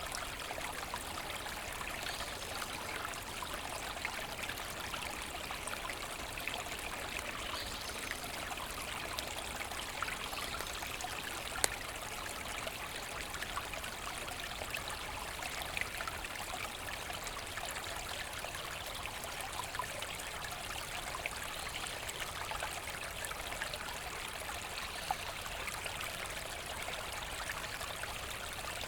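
A forest brook flowing steadily, with fine splashing and trickling over stones.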